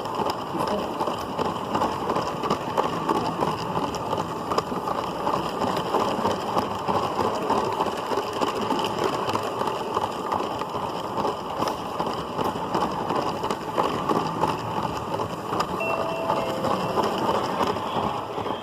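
LEGO City Passenger Train 60197 running along its plastic track, heard from a camera riding on one of its cars: the motor and the plastic wheels on the track make a steady, dense rattle.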